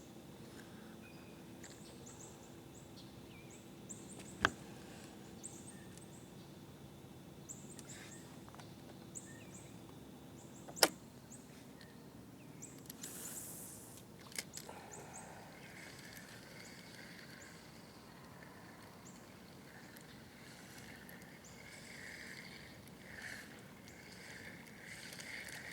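Quiet outdoor ambience with faint high chirping calls. Two sharp clicks stand out, the louder one about eleven seconds in, with a brief hiss a couple of seconds after it.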